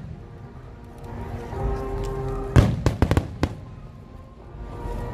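Aerial fireworks shells bursting: a quick cluster of about five sharp bangs near the middle, over music playing.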